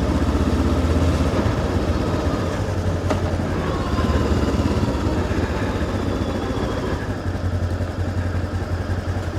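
Voge DS525X's parallel-twin engine running at a steady low speed under riding wind noise, easing off a little near the end.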